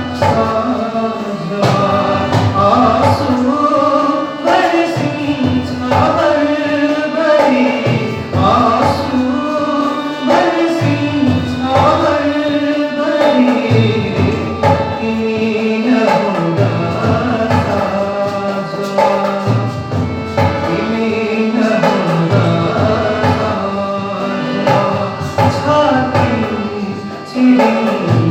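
A man singing a Nepali modern song with instrumental accompaniment.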